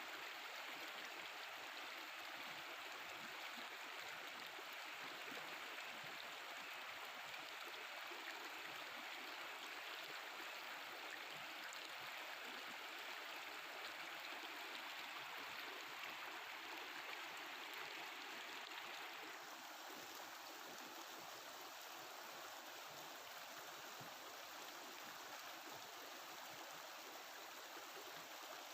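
Mountain river water flowing and babbling over rocks, a steady rushing noise that turns a little duller about two-thirds of the way through.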